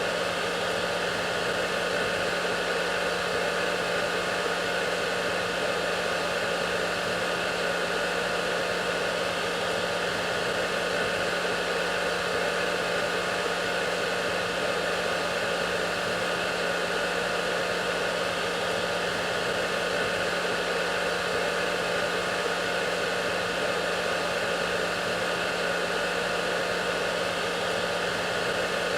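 Hair dryer running continuously: a steady, unchanging whooshing hiss of the fan's airflow with a low motor hum underneath.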